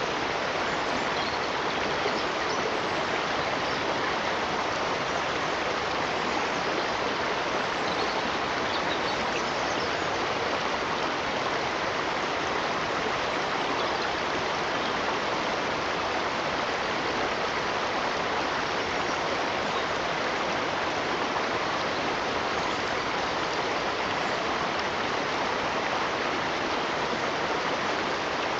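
Running water of a stream, flowing with a steady, even rush.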